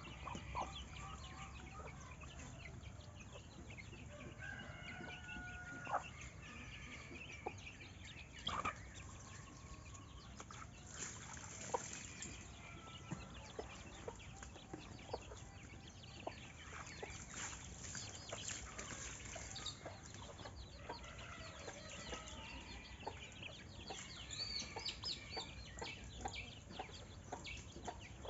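Chickens clucking, with other birds chirping in short scattered calls.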